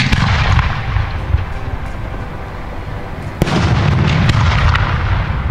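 Aerial fireworks shells booming twice, about three and a half seconds apart, each bang rolling on in a rumbling echo that fades over a couple of seconds.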